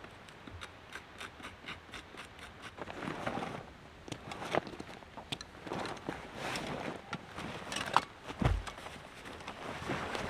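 Handling noises: irregular light clicks and rustling or scraping, with one dull thump about eight seconds in.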